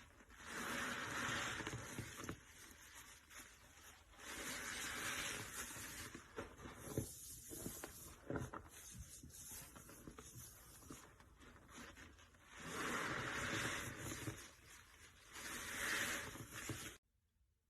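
A sponge soaked in soapy cleaning solution is squeezed hard four times, with quieter crackling and ticks between the squeezes. The sound cuts off suddenly near the end.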